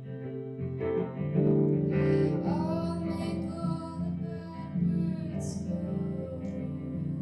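Live solo song: acoustic guitar playing under a sung vocal line.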